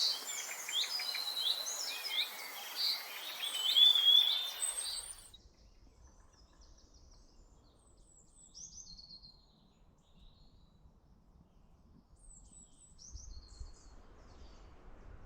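Woodland birdsong, several birds singing and calling at once with a hiss behind them, then cutting off abruptly about five seconds in to fainter, scattered calls over a low rumble.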